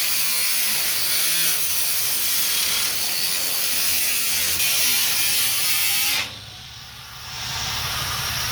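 Power tool cutting a rib off a metal roofing panel: a loud, steady rasping mechanical noise that stops suddenly about six seconds in, leaving a softer steady hiss of rain.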